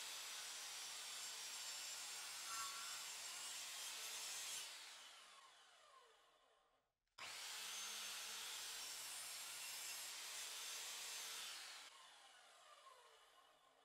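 Electric power tool running steadily, switched off about four and a half seconds in and coasting down with a falling whine, started again about seven seconds in, then switched off once more near the end and winding down.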